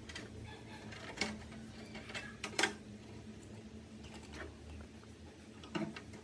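Scattered clicks and light knocks of small hard parts being handled while an old PC is worked on, the sharpest a quick cluster about two and a half seconds in and another pair near the end, over a steady low hum.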